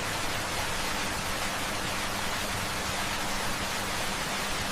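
A steady, even hiss of noise, with a few faint low steady tones beneath it.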